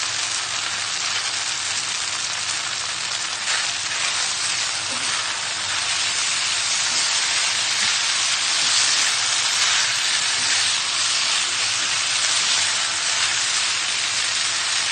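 Stir-fried bean vermicelli, prawns and vegetables sizzling steadily in a hot pan as they are tossed with freshly added garlic chives. The sizzle grows a little louder past the middle.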